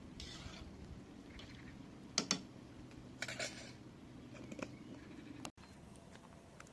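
Several sharp clinks and knocks of utensils against dishes or cookware, the loudest about two seconds in, with light rustling between them.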